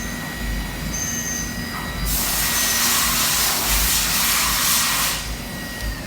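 Fadal VMC4020 CNC machining center running, with a steady whine and low rumble. A loud, even hiss comes in about two seconds in and stops about five seconds in.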